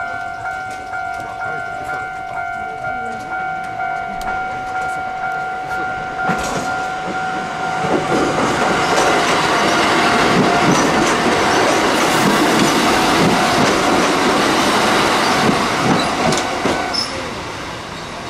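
Japanese level-crossing alarm ringing a steady, repeating electronic ding, while a Kotoden retro electric train passes through. The train's rumble and wheel clatter build from about a third of the way in, peak in the middle and fade, and the crossing alarm stops shortly before the end.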